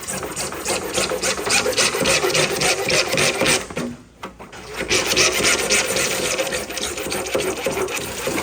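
Hole saw cutting into wood, a rapid rasping made of many quick strokes. It stops briefly about four seconds in and then starts again.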